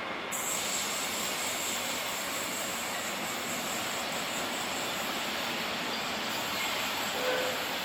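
Train rolling past on the rails: a steady rush of wheels on track with a high, thin steady squeal over it, and a brief short tone near the end.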